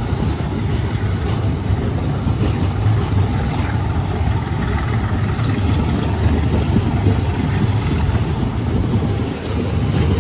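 Passenger train coaches passing close by at speed: a loud, steady rumble of wheels running on the rails.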